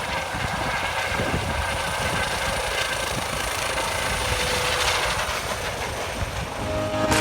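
Helicopter running close by at high power, a dense rush of turbine and rotor noise with a rapid low beat from the rotor blades, as it takes off.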